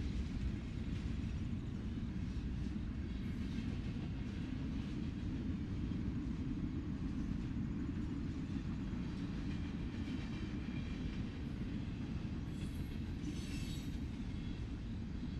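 Freight cars of a mixed freight train rolling past: a steady low rumble of steel wheels on rail, with a brief high wheel squeal near the end.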